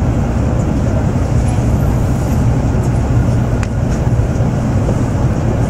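Cabin noise of an N700-series Shinkansen running at speed: a steady low rumble with a rushing hiss over it.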